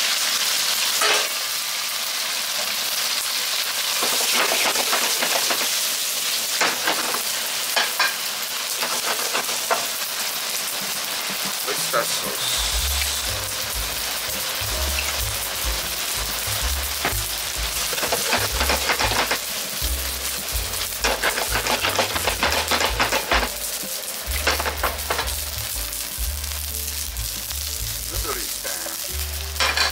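A stir-fry of pork, seafood and vegetables sizzling in a wok over a gas flame, with liquid poured in and a metal utensil scraping and tapping the pan. From about twelve seconds in a low pulsing sound runs underneath; near the end noodles are frying in a pan.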